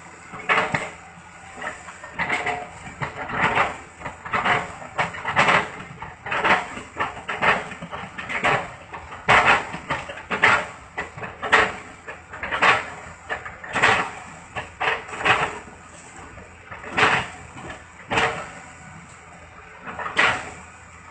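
Caterpillar excavator chipping felled oil palm trunks: repeated chopping strikes into the wood about once a second, over the machine's steady running.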